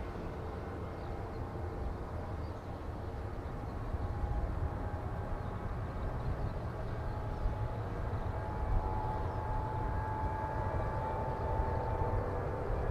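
Distant jet aircraft engines: a steady low rumble with a faint whine, growing slightly louder about four seconds in.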